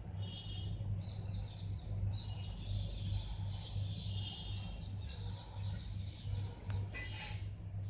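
Birds chirping in the background over a low, pulsing hum, with a brief rustle-like noise near the end.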